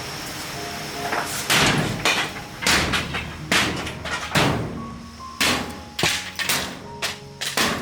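A series of heavy knocks or strikes, about one a second.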